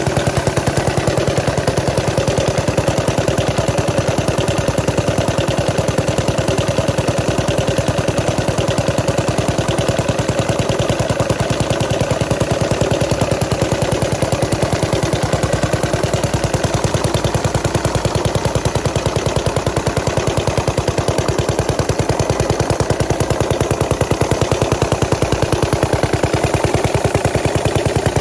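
Small antique Paige gas engine, built for a Standard cream separator, running steadily, its exhaust firing as a fast, even string of sharp pops.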